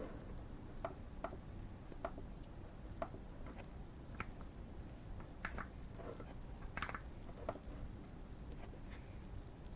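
Fireplace crackling: a low steady rumble with sparse, irregular pops and faint sharp ticks.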